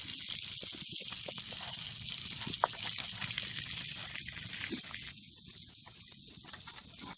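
Lamb kokoreç sizzling on a hot tin sheet over a campfire, a steady hiss with scattered crackles and pops. The hiss drops away about five seconds in, leaving fainter crackles.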